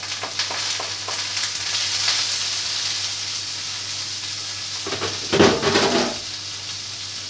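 Garlic and greens sizzling as they fry in a pan, with the steady hum of a kitchen range hood beneath. A louder stretch of stirring and clatter comes about five seconds in.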